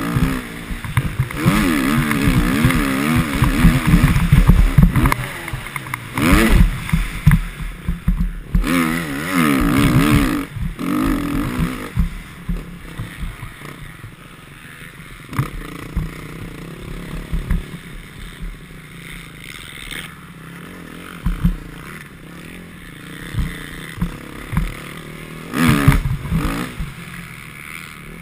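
Motocross bike engine revving hard and easing off again and again through the first twelve seconds or so, then running quieter with scattered knocks, and revving up once more near the end.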